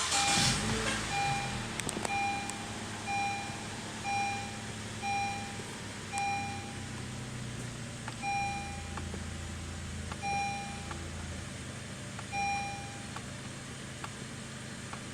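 Honda HR-V engine catching and flaring at the start, then settling into a steady idle. Over it the dashboard warning chime dings about once a second, slows to every two seconds after about six seconds, and stops a little past twelve seconds.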